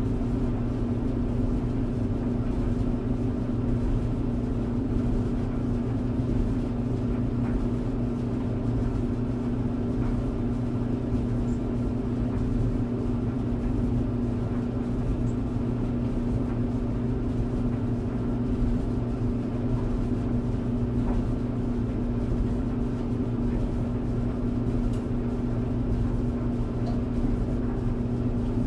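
Tumble dryer running: a steady, even hum with a constant low drone and a soft rushing noise over it.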